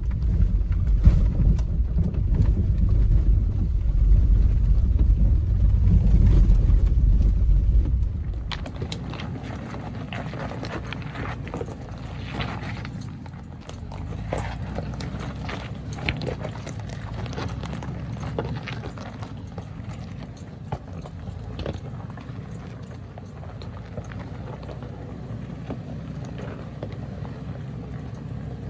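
A 4Runner on a rocky off-road trail: a loud low rumble for about the first eight seconds, then quieter running with many irregular clicks and knocks of rocks crunching and popping under the tyres.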